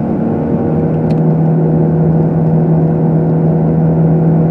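Car engine and road noise heard from inside the cabin while driving, with a steady low engine drone that settles at one pitch about a second in.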